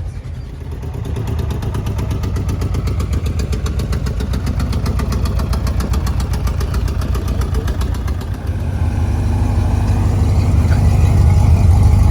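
A car engine idling nearby with a steady low rumble, growing louder about eight seconds in.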